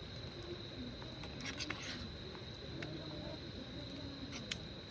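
Quiet outdoor ambience: a steady high-pitched tone with faint distant voices underneath and a few scattered short clicks, most of them between one and two seconds in and one more near the end.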